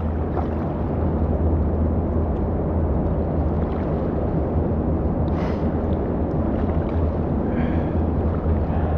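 Steady low rumble of flowing river water echoing inside a tunnel, with a deep, constant drone underneath.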